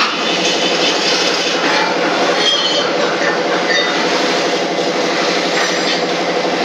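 Loud, steady mechanical din with occasional short metallic clinks.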